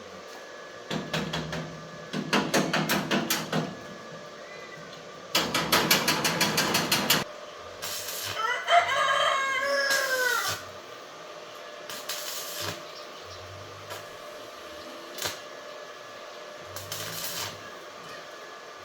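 A rooster crowing once, a long bending call about eight seconds in, after two bursts of rapid clattering.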